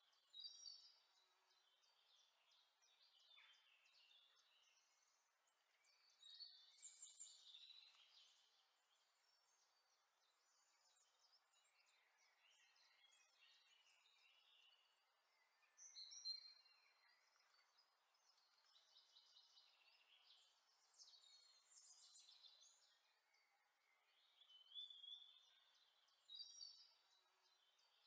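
Faint birdsong: clusters of high chirps and short whistled notes every few seconds.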